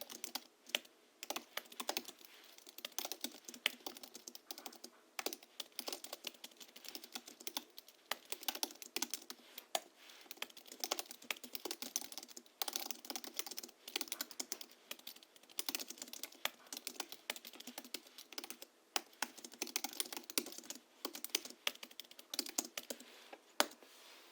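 Steady, irregular typing on a Hansung GHL-5X keyboard, tuned for a deep, muted key sound with springs lubricated with Krytox 103 and 107, 50 g rubber domes and sound-absorbing foam in the case. Fast runs of keystrokes are broken by a few brief pauses.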